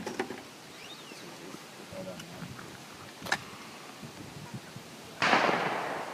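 Shotgun fired at clay targets: a sharp, short crack about halfway through, then a louder shotgun blast a little after five seconds that rings out and dies away over about a second.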